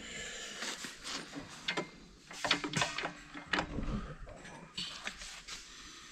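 Irregular knocks, clanks and scraping of metal parts being forced together by hand on a corn head's splined drive shaft, with a few sharper clanks in the middle.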